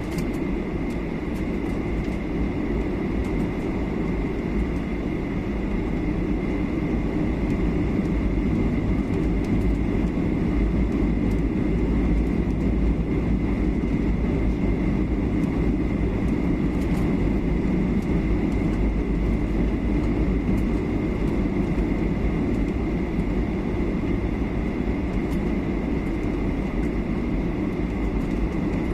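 Steady cabin noise of a Boeing 737-800 airliner on approach: a deep rumble of the CFM56 engines and airflow, with a thin steady whine above it. It grows slightly louder a few seconds in.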